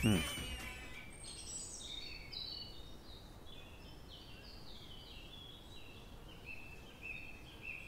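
Birds chirping: a run of short, clear, high notes, some stepping down in pitch, over faint outdoor background noise.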